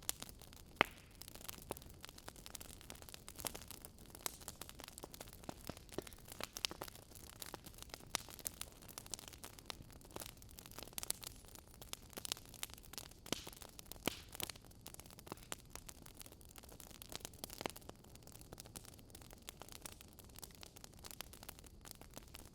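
Wood logs burning, crackling and popping: irregular sharp pops of varying loudness over a faint steady hiss.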